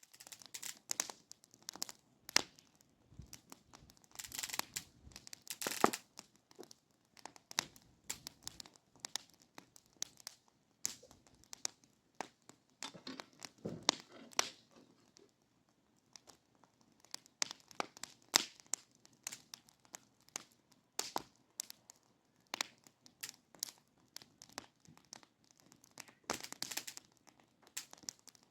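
Close, irregular rustling and crinkling of material being handled, broken by scattered sharp clicks, with louder bursts of handling now and then.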